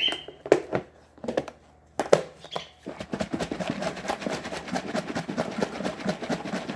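Chopped vegetables, grains and beans being tipped into a bowl with a few knocks and clunks, then a container of the bird chop mix being shaken, a fast steady rattle of small clicks starting about three seconds in.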